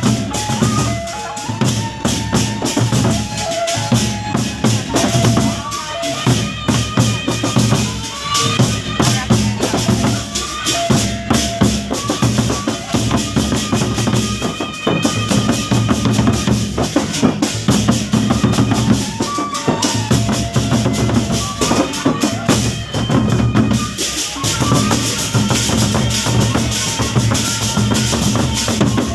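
Sasak gendang beleq ensemble playing: large drums beaten in a fast, dense rhythm, with short held melodic notes above.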